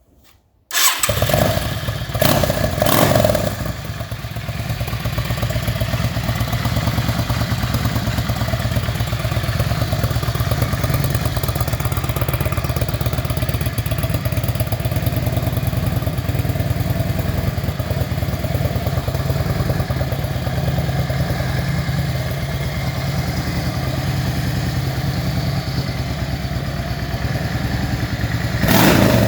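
Yamaha Drag Star XVS 650's air-cooled V-twin, fitted with an MSR Short Shot exhaust, starting up about a second in, revved briefly twice, then settling into a steady idle.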